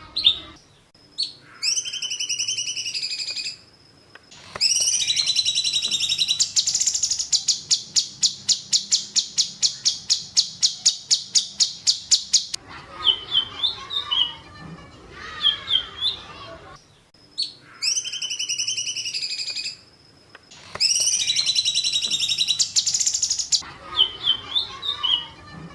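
Songbird song from a masteran training recording: sharp chirps and whistled phrases, then a fast rapid-fire 'tembakan' trill of about six notes a second held for about six seconds. The same run of phrases comes round again about sixteen seconds later, as in a looped recording.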